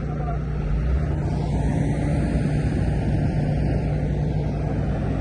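A vehicle engine running steadily with a constant low hum and rumble.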